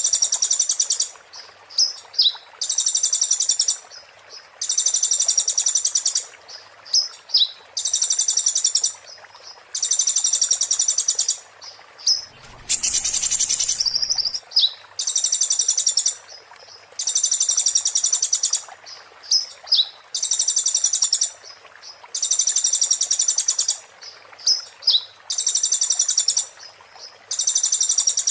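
Konin songbird singing a rapid, sharp, high-pitched chattering phrase of about a second, repeated roughly every two seconds, with short chirps between phrases. About halfway through, a brief rustling noise sounds over one phrase.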